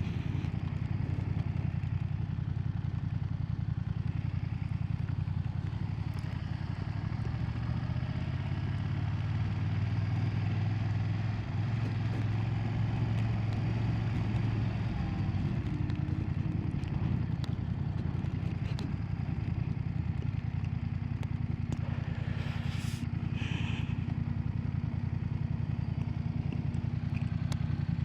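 BMW F900R motorcycle's 895cc parallel-twin engine running steadily, its note holding a little higher for several seconds midway, with a short hiss near the end.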